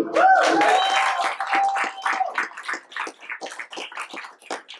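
A small crowd clapping and cheering. One voice holds a long whoop through the first two seconds, and the applause thins to a few scattered claps near the end.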